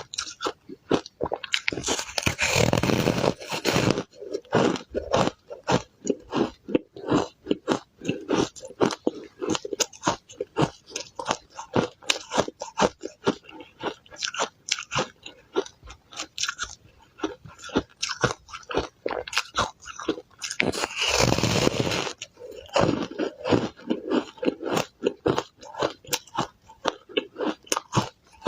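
Ice being bitten and chewed: rapid, sharp crunches one after another. There are two longer, louder crunching stretches, one about two seconds in and one around twenty-one seconds.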